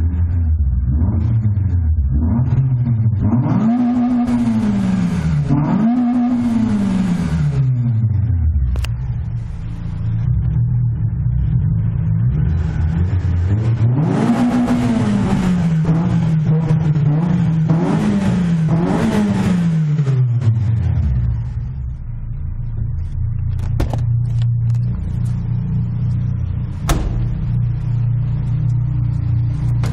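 Citroen Saxo VTS 1.6 16V four-cylinder petrol engine idling and being revved while standing still, through a straight-through rear silencer and a larger cone air filter. Two quick revs about 3 and 6 seconds in, then two longer, harder revs around 14 and 18 seconds that hang high for a moment before dropping back to a steady idle. A few sharp clicks near the end.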